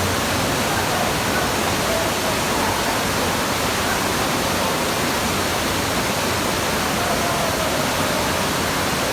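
Steady rushing of floodwater, an even, unbroken roar of water.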